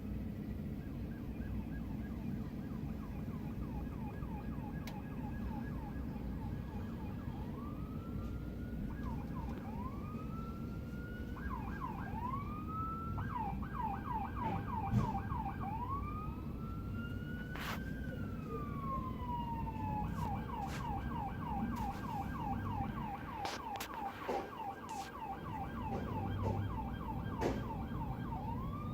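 Police car siren switching between a fast yelp, about three to four sweeps a second, and a slower wail that rises and falls, over a steady rumble of street traffic. A few sharp clicks stand out in the middle.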